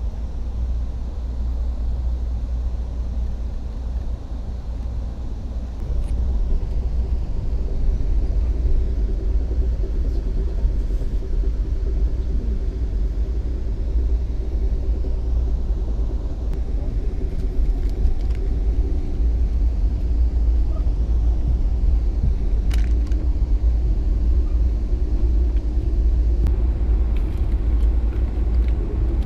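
Passenger train rolling along the track, heard from inside the carriage: a steady deep rumble with a faint hum, growing louder about six seconds in, with an occasional sharp click.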